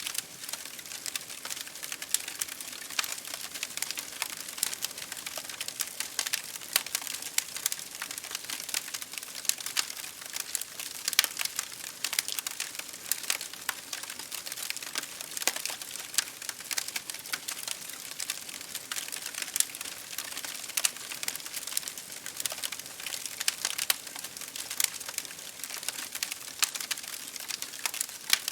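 Wood fire crackling in a fireplace: dense, irregular pops and snaps, some sharper and louder than the rest, over a steady hiss of rain against a window.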